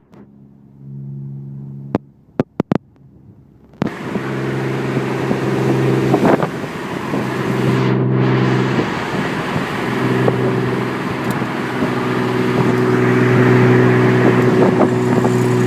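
Jackhammer running in bursts: a steady, hard, pitched drone that stops briefly and restarts several times, close enough in sound to be taken at first for the car making a noise.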